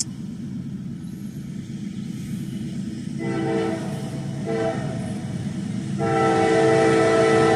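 Freight locomotive air horn sounding over the low rumble of the approaching train: a blast of about a second, a short blast, then a long blast. The horn is taken by the onlooker as a warning to a deer on the track.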